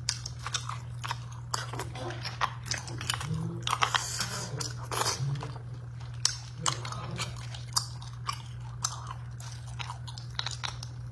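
Close-miked wet chewing and mouth sounds from eating chili-sauced beef bone marrow, with many irregular sharp clicks over a steady low hum.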